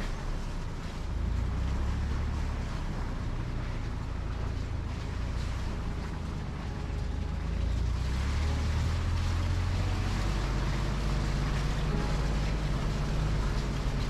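Bronco's engine running as it drives, a steady low rumble that grows louder about a second in and again around eight seconds in.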